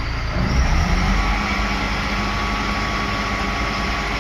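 Self-loading concrete mixer truck's engine revving up about half a second in and holding high revs to drive the loading bucket as it scoops and lifts a load of stone.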